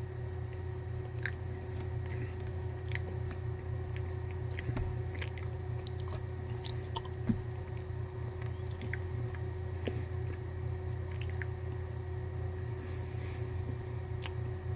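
A person chewing a bite of Cadbury Caramello, milk chocolate with soft caramel, making small wet mouth clicks scattered throughout, with a sharper click about seven seconds in. A steady low hum runs underneath.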